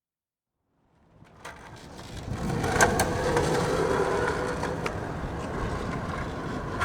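Skateboard wheels rolling on pavement: a steady rumble with a few sharp clicks, fading in after about a second of silence.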